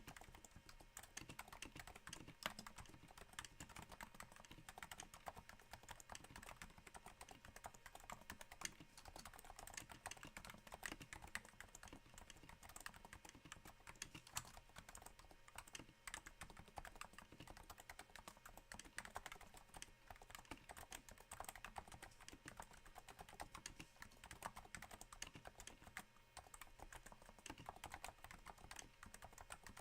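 Faint, continuous typing on a Cooler Master Novatouch keyboard, whose Topre switches are fitted with Hypersphere silencing rings: a dense, irregular run of soft, damped keystrokes that sounds a little like rain.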